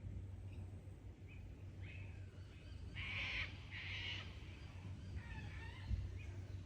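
Wild birds calling in Australian bush, with two loud harsh calls about three seconds in and softer chirps and warbles around them, over a low steady rumble.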